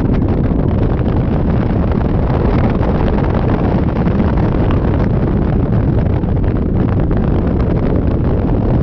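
Wind buffeting the microphone on a moving Yamaha Majesty 400 scooter: a loud, steady rush weighted to the low end.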